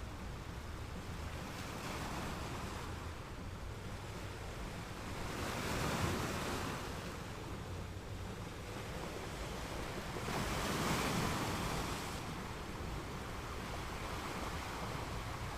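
Ocean waves rolling onto the shore over a steady rush of surf, with two louder surges breaking about five and ten seconds in.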